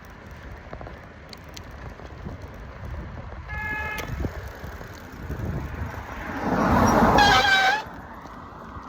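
Car horn honking at cyclists crossing in front of it: a short toot about three and a half seconds in, then a longer, louder blast near the end as the car passes close by.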